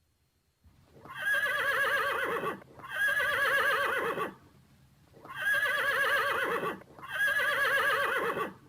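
Horse whinnying four times, in two pairs of long calls with a quavering, wavering pitch.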